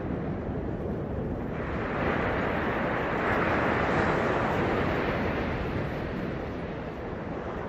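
Ocean surf: a wave breaks and washes in, the rush of water swelling about a second and a half in, peaking midway and then easing off, over a steady low rumble of the sea.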